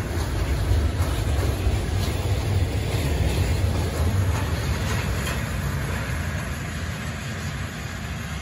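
Freight train of tank wagons rolling past on the rails: a low rumble of steel wheels on track with a few clicks. It fades over the last few seconds as the end of the train pulls away.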